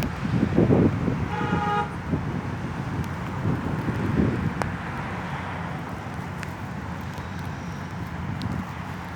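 A car horn gives one short toot about a second and a half in, over gusts of wind rumbling on the microphone and street traffic.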